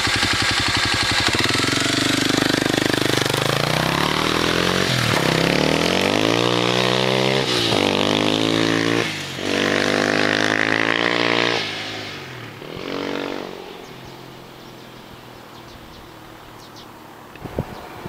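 Kawasaki KLX250S single-cylinder four-stroke motorcycle with an FMF Q4 muffler and Powerbomb header accelerating through the gears. The engine note climbs and drops back at each upshift, about four times, then fades as the bike rides away.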